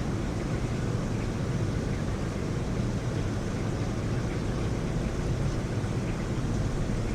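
Heavy rain falling steadily, a dense, even hiss with a low rumble underneath.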